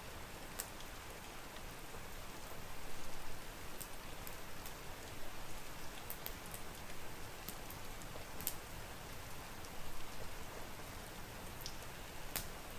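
Steady rain falling, a continuous hiss with scattered sharp ticks and pops.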